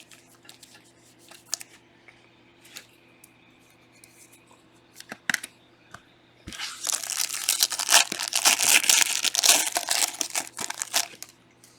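Small clicks of trading cards being handled, then, about six and a half seconds in, a few seconds of loud crinkling and tearing as the wrapper of a trading-card pack is ripped open.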